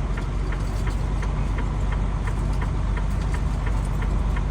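Truck engine running steadily with a low rumble, and a faint regular ticking about three times a second over it.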